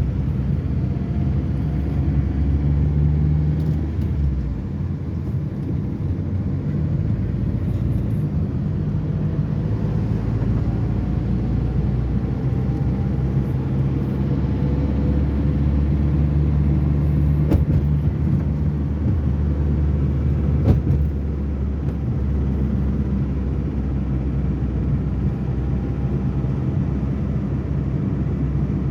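Steady low rumble of motor vehicle noise, with a couple of sharp clicks or knocks about 17 and 21 seconds in.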